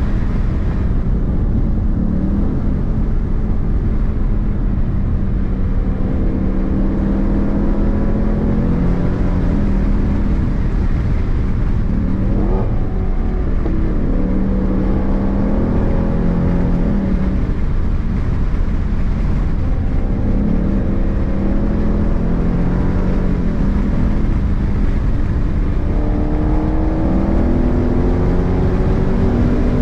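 Ford Mustang's engine heard from inside the cabin, revving up and easing off again and again over a steady low rumble.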